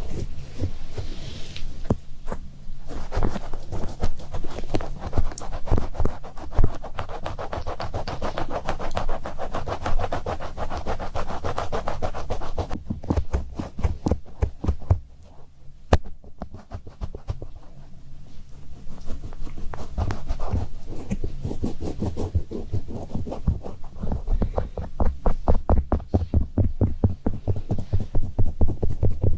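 Close-miked ASMR scratching and rubbing: a dense run of rapid scratchy clicks over a low hum. It eases off about halfway through, then picks up again.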